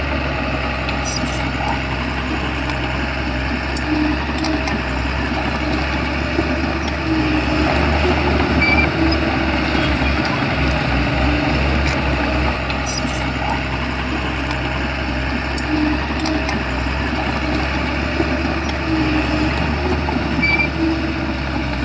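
Shantui bulldozer's diesel engine running steadily with a low rumble, growing briefly louder about eight seconds in.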